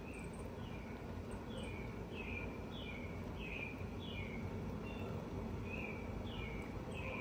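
A bird calling in a series of short, falling chirps, about two a second, over a steady low background rumble.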